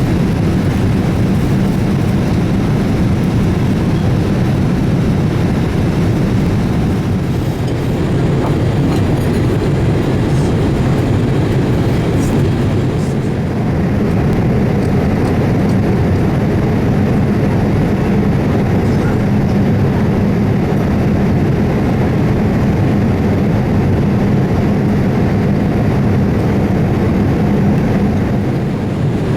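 Steady, loud rumble of a Boeing 787-8 airliner heard from inside the cabin: its General Electric GEnx-1B engines and the rush of air, with a low hum.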